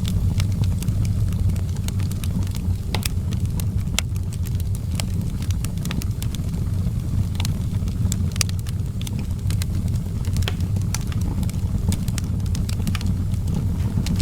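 Outdoor wood fire crackling, with sharp irregular pops over a steady low rumble.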